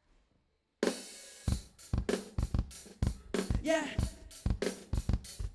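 A hip-hop drum beat starts suddenly about a second in after near silence, with kick, snare, hi-hat and cymbal hits in a steady rhythm. A man's voice calls "yeah" near the end.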